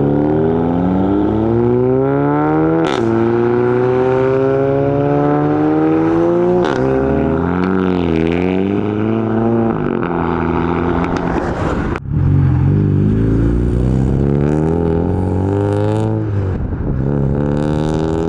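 A modified car's engine accelerating hard, its pitch climbing and then dropping abruptly at gear changes, twice. After a sudden break about two-thirds of the way through, an engine revs up and down repeatedly.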